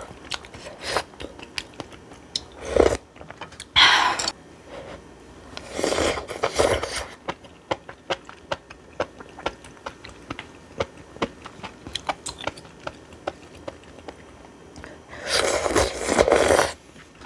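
Close-miked eating of old-cucumber bibimbap: steady small crunching and chewing clicks, broken by a few louder, longer noisy bursts, the longest near the end.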